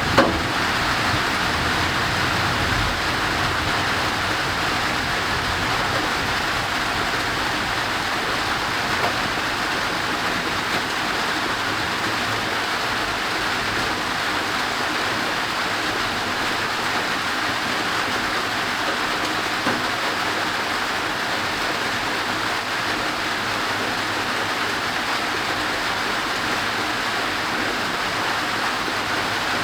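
Steady thunderstorm rain falling, an even hiss that neither builds nor fades.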